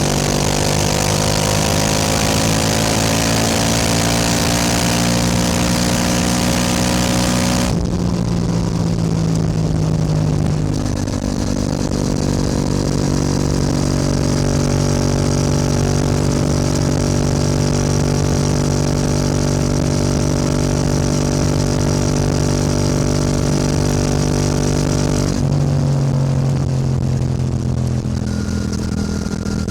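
Yamaha R7's parallel-twin engine heard while riding, its note climbing slowly for the first several seconds under loud wind rush. The wind rush cuts off suddenly, the engine then holds a steady note for a long stretch, and near the end the wind comes back and the engine note drops.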